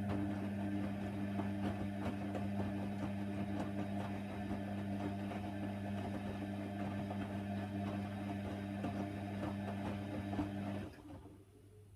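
Hoover Nextra HNWL 7146 washer dryer running during a Cotton 60 wash: a steady electric hum with a rough rushing noise over it, which cuts off suddenly about eleven seconds in.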